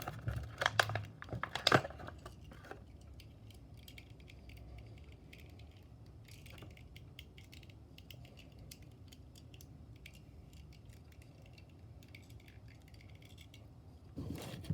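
Handling of a diecast model car: a few sharp clicks and knocks in the first two seconds, then faint scattered light ticks over a low steady hum, with a brief rustle near the end.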